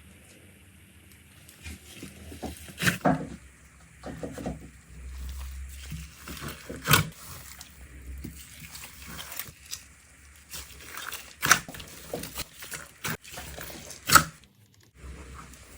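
Slime being squished and poked by hand, making irregular wet pops and crackles. The loudest pops come about 3, 7, 11.5 and 14 seconds in.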